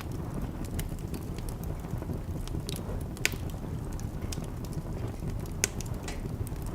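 Wood fire crackling in a fireplace: scattered sharp pops and snaps over a steady low rumble, with two louder pops about three and five and a half seconds in.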